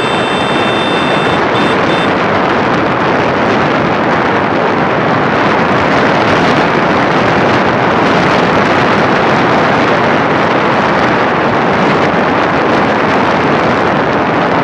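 Steady loud rushing noise of a motorcycle ride: wind buffeting the microphone over road and engine noise. There are a few faint high tones in the first two seconds.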